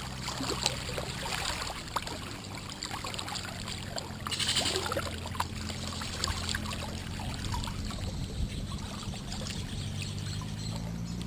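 Water trickling and dripping against a fishing kayak, with small splashes and a louder splash about four seconds in, over a steady low hum.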